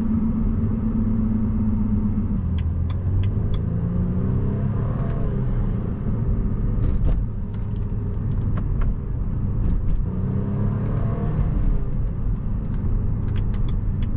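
A 2016 BMW Z4 sDrive28i's turbocharged 2.0-litre four-cylinder engine, heard from inside the cabin, pulls up through the revs twice, about four seconds in and again about ten seconds in. Its intake and turbo sound sits over a steady road rumble, with a few scattered ticks.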